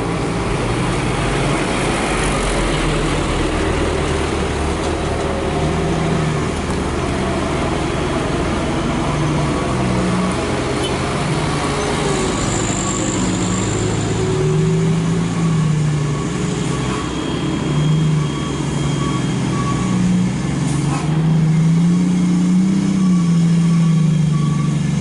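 Heavy truck diesel engine labouring up a steep climb, its revs rising and falling again and again.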